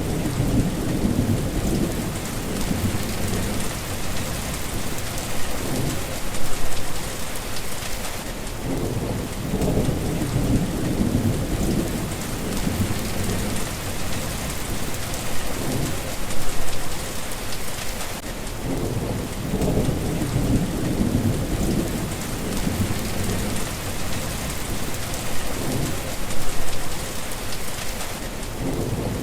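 Steady rain falling, with low rumbles of thunder that swell and fade about every ten seconds.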